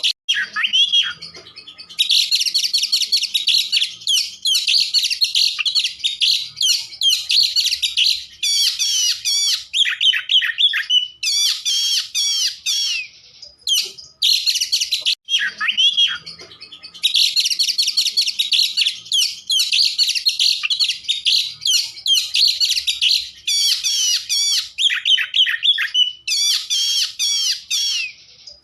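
Oriental magpie-robin (kacer) singing a loud, fast, varied song of rapid whistles and trills with short gaps. After a brief pause about halfway, the same run of phrases comes again.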